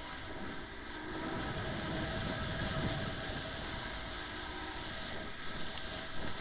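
Umpire motorboat's engine running steadily under a haze of wind and water noise, getting louder about a second in.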